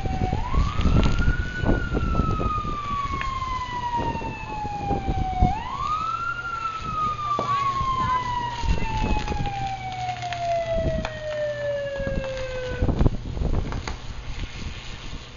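Mechanical siren winding up quickly and then coasting slowly down in pitch, twice; the second wind-down is long and cuts off about 13 seconds in. Wind buffets the microphone with uneven low rumbling throughout.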